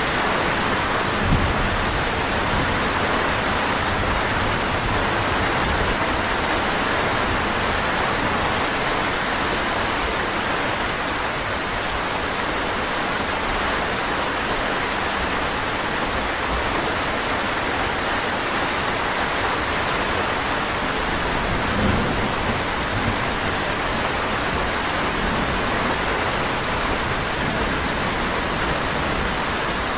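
Steady, continuous rainfall: a dense hiss of rain, strongest in the mid range. A couple of brief low thumps sound about a second in and about 22 seconds in.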